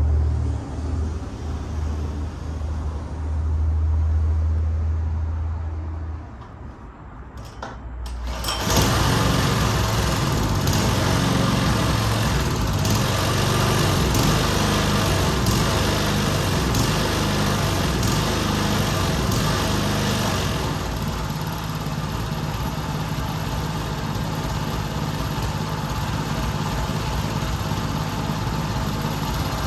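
A low steady hum, then about eight seconds in a small petrol engine, most likely the lawn mower's, starts suddenly and keeps running steadily, a little quieter from about twenty-one seconds on.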